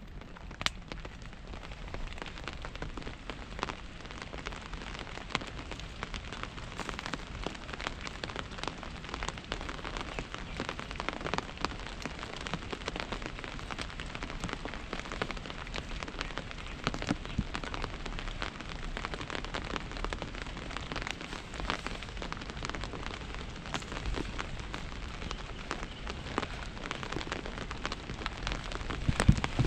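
Steady rain falling on a hard surface, with a dense spread of separate drops ticking sharply throughout. A few louder knocks come near the end.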